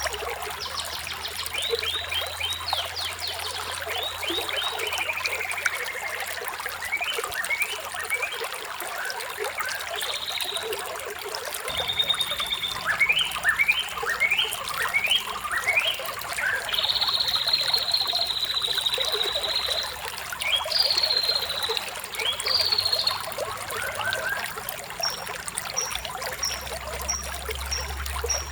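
Water trickling steadily, with birds singing over it: repeated quick chirps and trills, one held trill about halfway through.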